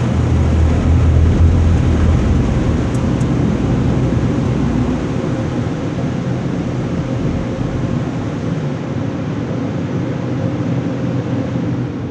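Automatic car wash running around a car, heard from inside the car: a steady rushing noise with a low rumble that eases about five seconds in.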